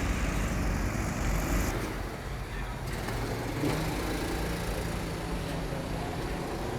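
Steady rumble of vehicle engine and road noise.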